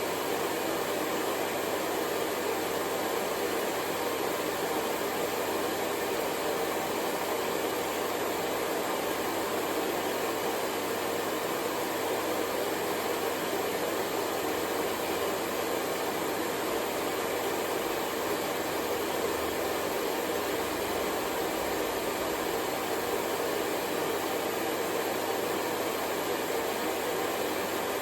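Hair dryer running steadily, a constant whooshing blow of air with a faint motor hum and no change in level.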